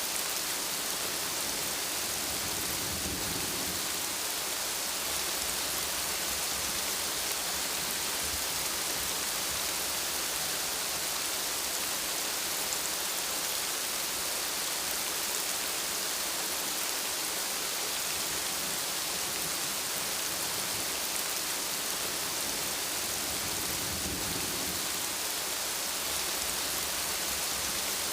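Steady rain, an even hiss throughout, with two soft low rumbles of thunder: one about three seconds in and one near the end.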